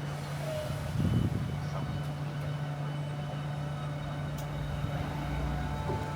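Electric multiple-unit train at the platform, running with a steady low electric hum, with a short louder rumble about a second in.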